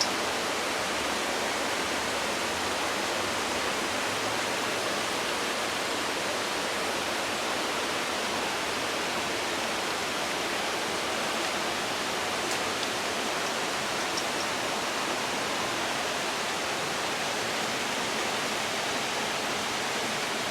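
A steady, even hiss with a couple of faint ticks near the middle.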